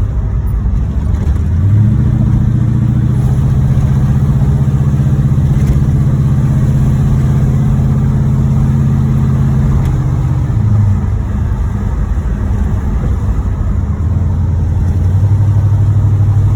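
1986 Chevrolet Monte Carlo SS's V8 engine running while driving, which has a bottom-end rod knock. Its note holds steady for several seconds, then drops about ten seconds in.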